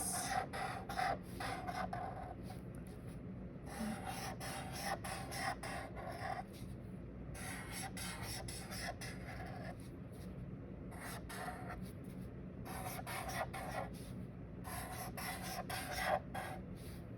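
A drawing tool scratching across paper in a series of short runs, each one to two seconds long with brief pauses between, as small U-shaped feathers are drawn. A faint steady low hum sits underneath.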